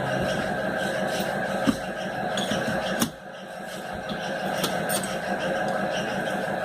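Two sharp metal clinks about a second apart, from handling the parts and screws of a sewing machine motor being taken apart, over a steady hum that dips briefly after the second clink.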